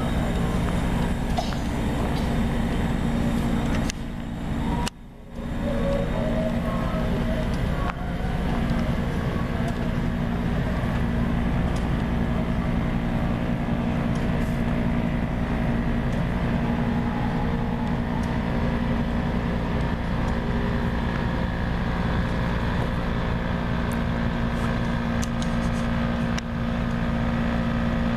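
Passenger train rolling slowly past with a steady diesel engine drone, holding one pitch; the sound briefly drops out about five seconds in.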